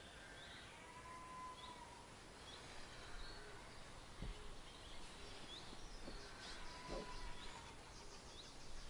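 Faint birdsong: short chirps repeated about once a second and a couple of long, held whistled notes, with a few soft knocks as things are handled on a table.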